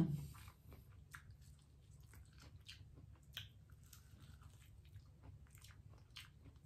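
Close-up mouth sounds of eating corn on the cob: biting into the kernels and chewing, a scatter of small crunchy clicks and wet smacks. A brief low voiced 'mm' falls in pitch right at the start.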